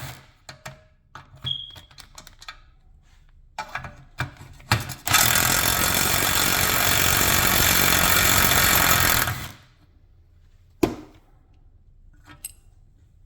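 Impact wrench hammering on seized suspension bolts: a few short bursts, then one long continuous run of about four seconds, followed by a single sharp knock.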